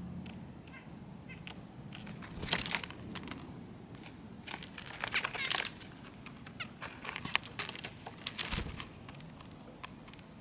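Small songbirds at backyard feeders giving short, high chips and calls in quick flurries, busiest around the middle.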